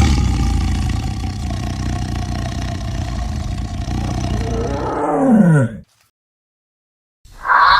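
A lion roaring: one long, deep, rough roar of nearly six seconds whose pitch drops sharply at the end before it cuts off. After a short silence, music begins near the end.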